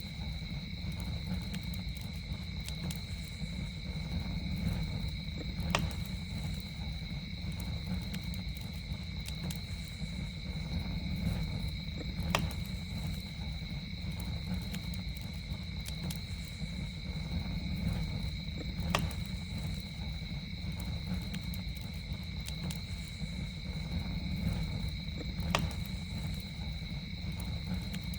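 Campfire burning with a steady low rumble and sharp pops, the strongest about every six seconds with fainter ticks between, over a steady high-pitched chorus of night insects in two pitches.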